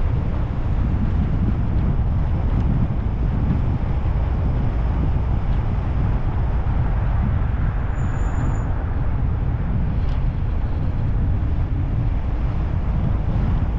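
Car driving at steady speed: a continuous low rumble of engine and tyres on the road. A brief faint high-pitched tone sounds a little past halfway.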